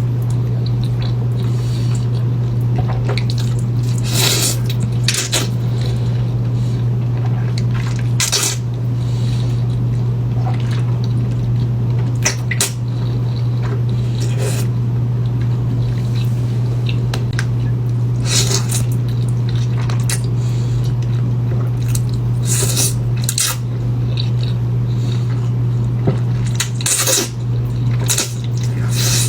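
Close-miked eating of spicy instant noodles: wet, squishy mouth and food sounds with scattered sharp clicks and clinks of utensils against a bowl. A steady low hum runs underneath.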